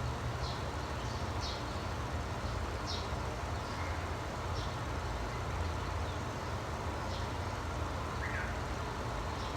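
Small birds chirping: short, high chirps repeated every second or so, with one lower chirp near the end. Under them runs a steady low rumble.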